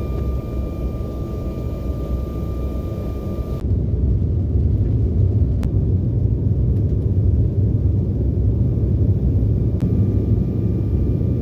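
Steady low rumble of an airliner's cabin in flight, with a faint steady whine in the first few seconds; about three and a half seconds in the rumble jumps louder and carries on steadily.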